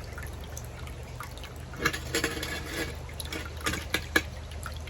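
Water from a small pump-fed terracotta-pot fountain trickling and dripping down over the pots, in irregular splashy drips, with a steady low hum underneath.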